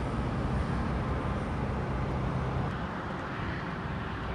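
Steady road and engine rumble heard from inside a moving car, easing off slightly about two-thirds of the way through.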